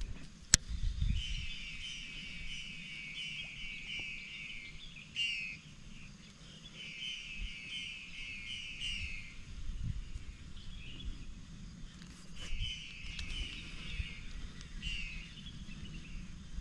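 A bird calling in runs of rapid chirps, each run lasting one to three seconds and repeated several times, over a low outdoor rumble. There is one sharp click just after the start.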